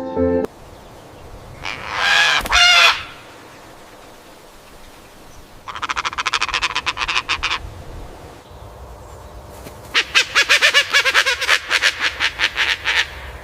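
Animal calls: one harsh call about two seconds in, then two runs of rapid rattling pulses, the second longer and louder, over a faint steady outdoor background. A music track ends about half a second in.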